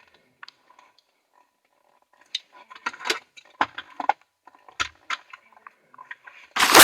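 Scattered rustles, clicks and knocks of someone rummaging around inside a car while searching for a misplaced key, then a loud crackling burst near the end.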